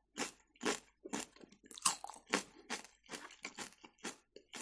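A person chewing raw celery close to the microphone: crisp crunches, about three a second.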